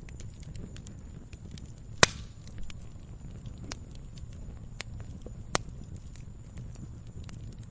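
Wood fire burning: a low steady rumble of flame with scattered crackles. There is a loud sharp pop about two seconds in and another about halfway through.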